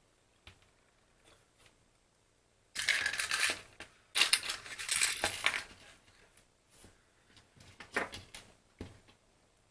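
Two bursts of scraping, crackling handling noise from small plastic phone parts, each lasting about a second and a half, followed near the end by a few light clicks.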